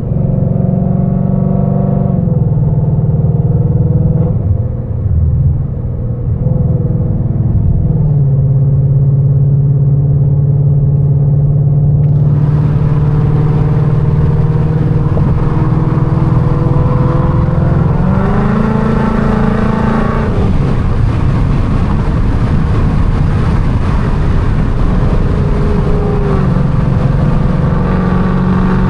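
Coyote 5.0 V8 of a straight-piped, catless 2019 Mustang GT running hard at fairly steady revs, with its pitch dropping and rising a few times. A harsher hiss joins suddenly about twelve seconds in and stays to the end.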